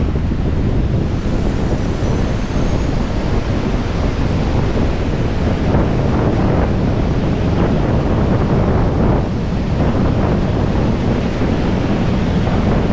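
Loud, steady wind rushing and buffeting against the microphone, rising and falling in gusts.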